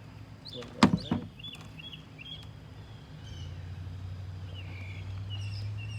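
Birds chirping in short high calls, with a brief loud sound about a second in and a steady low hum that sets in about halfway through.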